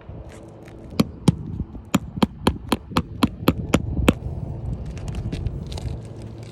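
Sharp hammer strikes: two blows about a second in, then a quick run of about nine more at roughly four a second, stopping a little after the middle.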